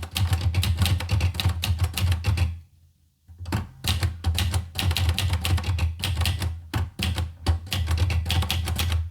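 Olivetti Lettera 25 manual portable typewriter being typed on fast: a rapid clatter of key strikes. The typing breaks off for about half a second a little under three seconds in, then carries on.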